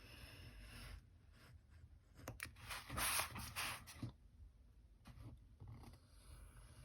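Paper being handled and rubbed down by hand, a light scratchy rustle with a louder burst of rustling and a few small clicks about three seconds in.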